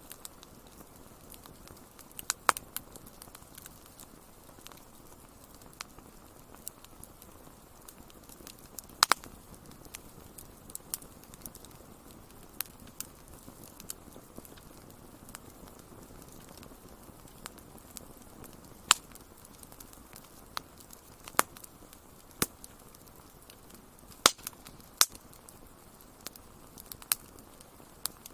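Wood fire crackling: irregular sharp pops and snaps, a handful of them much louder than the rest, over a steady low hiss.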